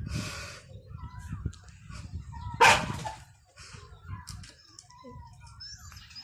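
Chickens making short chirping calls, with a noisy rustle at the start and a loud, sudden harsh burst about two and a half seconds in, such as a squawk or a flurry of wings.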